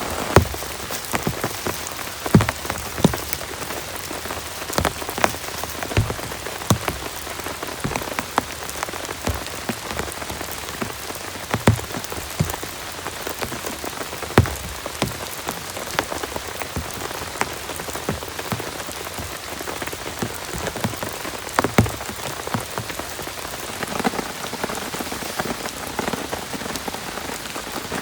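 Heavy rain falling steadily, with frequent sharp drops striking a surface close by over the even hiss of the downpour.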